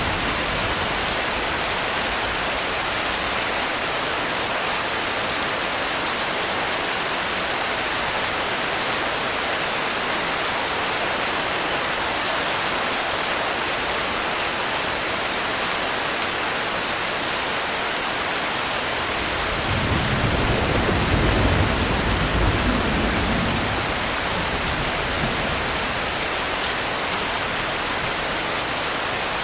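Steady rain, an even hiss without pause. About two-thirds of the way through, a low rumble of distant thunder swells for about four seconds and fades.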